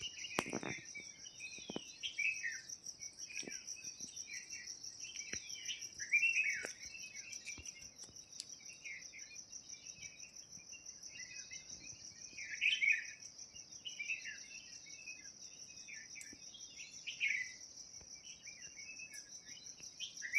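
Small birds chirping and twittering in quick, scattered phrases, with louder bursts about six seconds in, around twelve seconds in and near the end, over a steady high-pitched insect trill.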